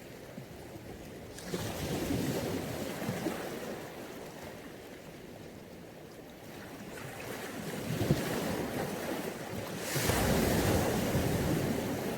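Mediterranean sea waves breaking and washing up the shore, the surf rising and falling in three swells, the loudest near the end.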